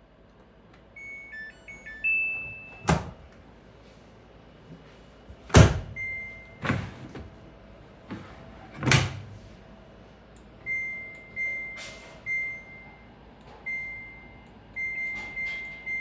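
Washing machine control panel beeping: a short tune of high beeps at switch-on, then single beeps as buttons are pressed, the last run of about seven beeps a second or so apart. Four sharp thunks fall between them, the loudest about five and a half seconds in.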